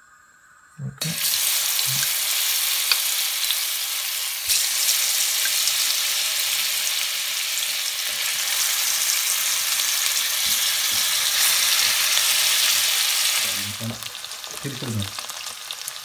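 Gram-flour-battered paneer cubes sizzling as they go into hot oil and ghee in a steel pan. The loud, steady sizzle starts abruptly about a second in and eases a little near the end.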